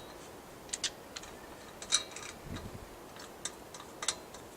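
Scattered light metal clicks and clinks of hand work on parts, irregularly spaced, with one sharper click about two seconds in and a brief dull bump just after.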